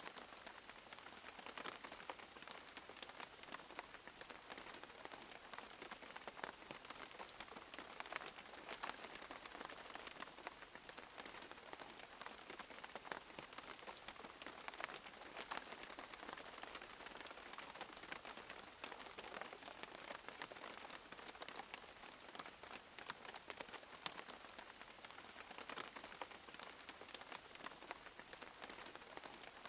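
Steady rain falling, with many separate drops pattering on surfaces.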